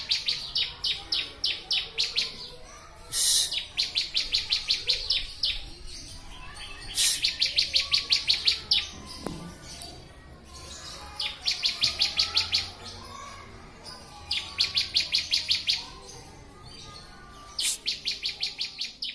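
Bar-winged prinia (ciblek) singing: six bouts of song, each a harsh opening note followed by a fast run of high chirps, about six a second, with pauses of a second or two between bouts.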